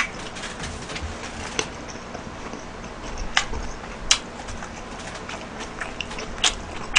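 Close-miked chewing of a mouthful of food, with a few sharp, wet mouth clicks and smacks spread through it.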